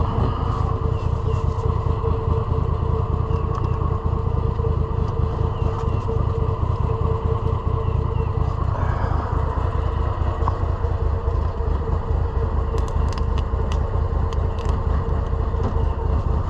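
Cub Cadet Big Country utility vehicle's engine idling steadily, with a few light clicks near the end.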